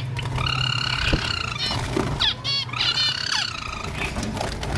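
Birds calling: two drawn-out calls of about a second each, with quick chirps between and around them.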